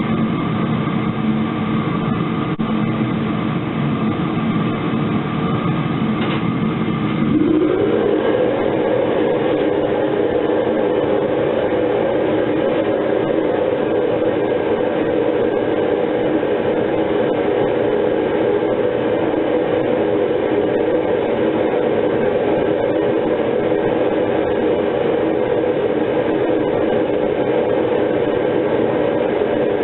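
Metal-melting furnace burner running with a steady roar; about seven seconds in, its tone shifts higher and a little louder and then holds steady.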